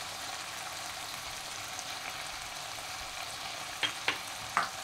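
Kakrol (spiny gourd) curry sizzling in its spiced gravy in a kadai: a steady frying hiss, with a few sharp clicks shortly before the end.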